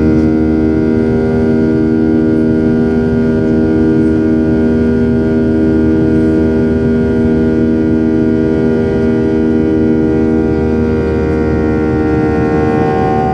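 Boeing 737-800's CFM56-7B jet engines running steadily, heard inside the cabin: a loud drone of several held tones over a low rumble, shifting slightly in pitch near the end.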